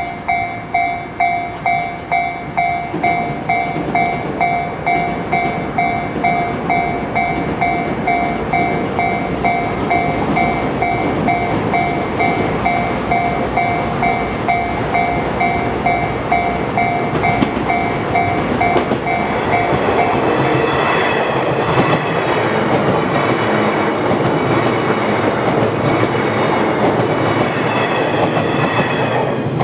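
Level-crossing warning bell ringing in a quick, even rhythm. About seventeen seconds in, a JR West 117 series electric train arrives and passes with rumbling wheels and clickety-clack on the rails. The train noise covers the bell until it falls away at the very end.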